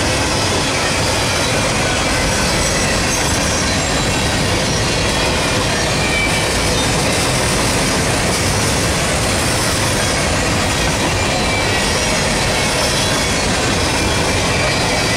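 Gondola freight cars rolling past: the steady noise of steel wheels on the rails, with a short high wheel squeal now and then.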